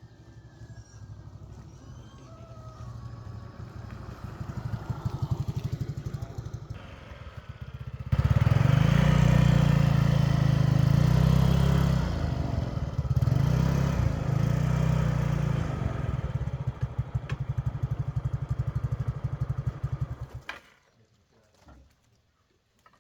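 Motorcycle engine running, growing louder as it comes close over the first several seconds, then running loud nearby before being switched off abruptly about twenty seconds in.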